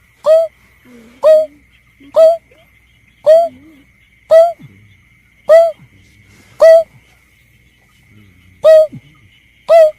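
Lure recording of the berkik (belkek) bird's call: a short, loud note that rises then falls, repeated about once a second, nine times, with one longer pause near the end. A faint steady high tone runs underneath.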